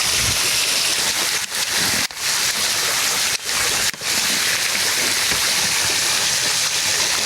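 Rushing water of a small waterfall, a steady loud hiss, dipping briefly a few times in the middle.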